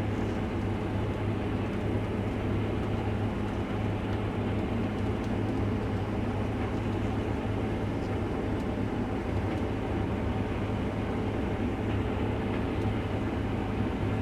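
Large diesel harvest machine engine running steadily under load, a continuous low drone with no change in pitch.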